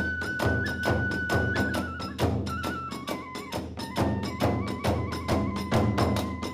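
Kagura accompaniment: a bamboo flute holds long notes over fast, steady drum strokes and clashing small hand cymbals. The flute's held note drops to a lower pitch about two to three seconds in.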